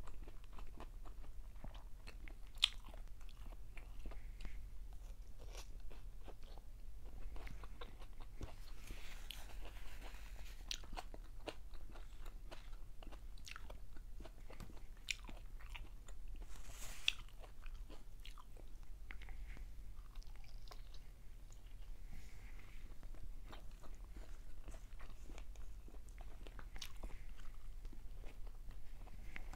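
Close-miked chewing and biting of someone eating with her hands: scattered crunches, mouth clicks and lip smacks, with fingers put to the mouth, over a steady low hum.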